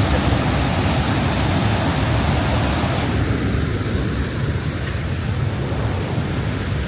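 Waterfall rushing: a loud, steady roar of falling water, which becomes duller about three seconds in.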